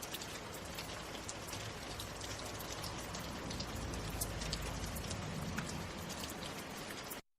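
Steady rain falling, with many individual drops ticking sharply close by; it cuts off suddenly near the end.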